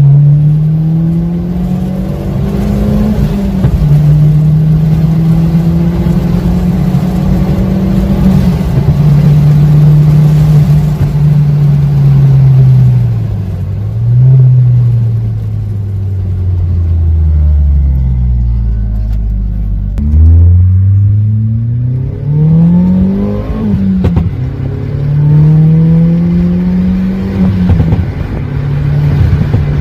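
VW Polo GTI (9N) 1.8-litre turbocharged four-cylinder heard from inside the cabin while driving. The engine note rises under acceleration and drops back at each gear change, sinks low as the car slows about seventeen to twenty seconds in, then climbs through the gears again.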